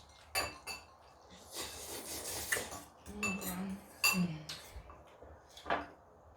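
A spoon clinking against a bowl: several sharp clinks, each with a brief ring.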